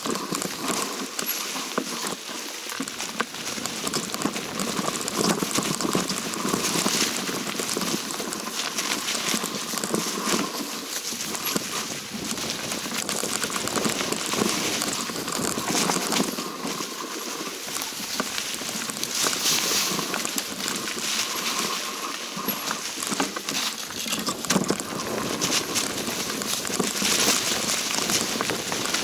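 Hiker's footsteps crunching and crackling on a forest trail during a downhill walk, a dense run of small irregular clicks.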